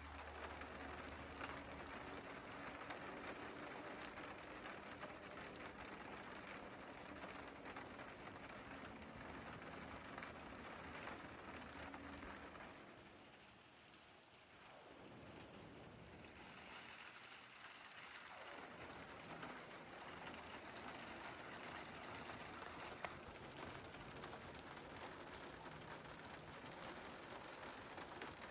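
Faint steady patter of freezing rain falling on surfaces during an ice storm. It dips briefly about halfway through, then returns.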